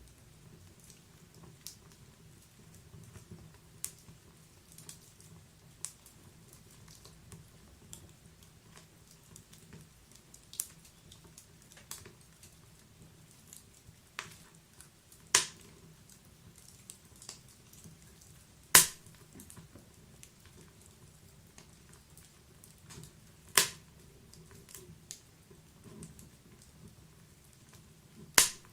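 Wood fire crackling: scattered sharp pops and snaps over a faint low rumble, with four much louder pops spread through the second half.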